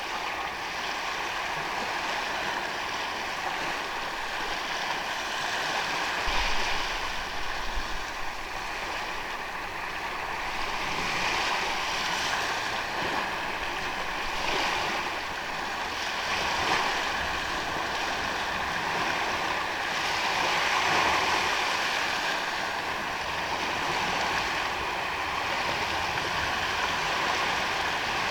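Ocean waves washing onto a sandy beach: a continuous rush of surf that swells and ebbs every few seconds, with a couple of brief low thumps about six to eight seconds in.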